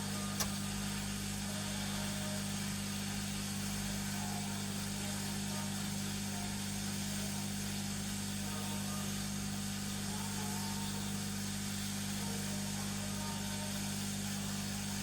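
Hot air rework gun blowing steadily while desoldering a chip: a constant low hum with an even hiss of rushing air. A single sharp click about half a second in.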